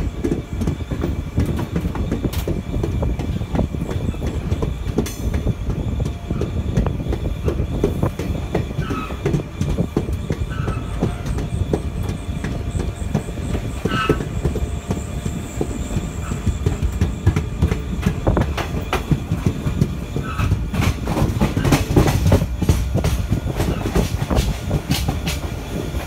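Passenger express coaches rolling out of a station and gathering speed, heard from aboard: a steady rumble with wheels clattering over rail joints, the clicks coming thicker near the end. A few brief high wheel squeals cut through it.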